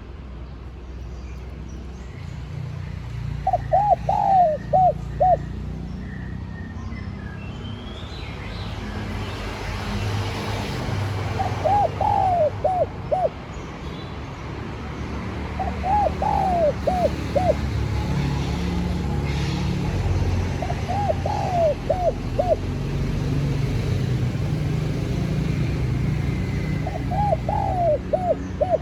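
Spotted dove (cu gáy) cooing: five short phrases of a few quick notes each, several seconds apart, over a steady low rumble.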